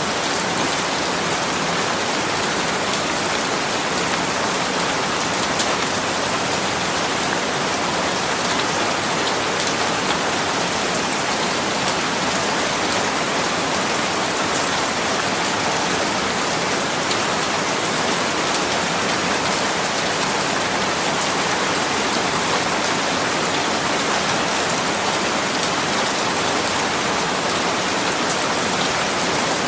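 Steady rain falling on a surface, an even hiss of many drops with faint individual drop ticks.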